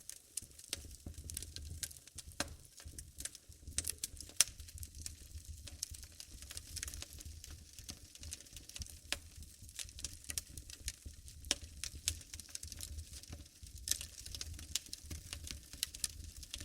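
Wood fire in a fireplace crackling: irregular sharp pops and snaps over a low steady rumble. One pop about four seconds in is the loudest.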